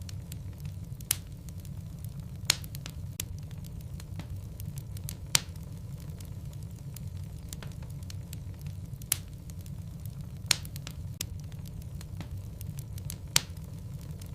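Wood logs burning in a fireplace: a steady low rumble of flame with constant light crackling. Half a dozen sharper pops stand out, spaced a second or more apart.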